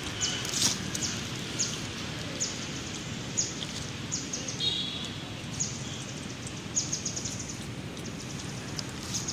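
Short, high-pitched bird chirps repeating about once a second over steady outdoor background noise, with a brief higher call about halfway through.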